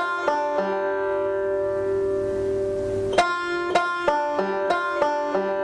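Five-string banjo played fingerstyle: a picked 1st-string note followed by backward rolls across the 1st, 2nd and 3rd strings, with the notes fretted at the 3rd fret. The last notes of one run ring out for a couple of seconds, then the phrase starts again with about seven quick notes.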